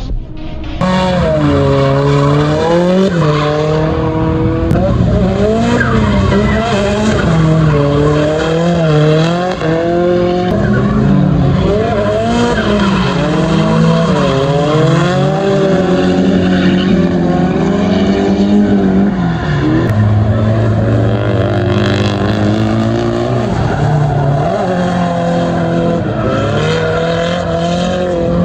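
Race car engine on track at high revs, its pitch rising and falling every second or two as the throttle is worked, with a steadier low note for about two seconds near the two-thirds mark.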